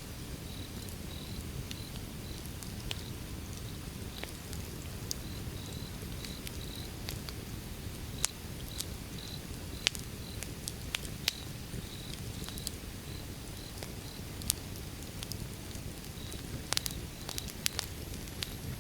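Outdoor wood fire burning with a low steady rumble and scattered sharp crackles and pops, a cluster of louder pops near the end. An insect chirps faintly in the background, about twice a second.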